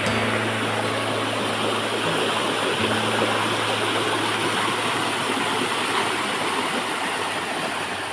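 Steady rush of flowing water, like a stream or small waterfall, with low held tones underneath.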